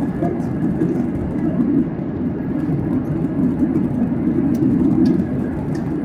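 Steady engine and airflow noise inside the cabin of a Boeing 737-800 in flight, heard from a window seat: an even low rumble with no change in pitch. The engines are CFM56-7B turbofans.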